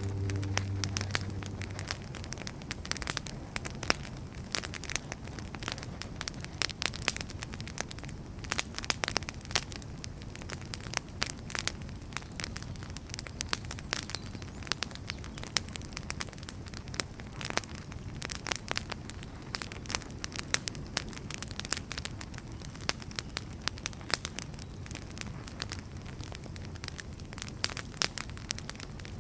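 Wood fire crackling, with frequent irregular sharp pops over a steady low rush of burning.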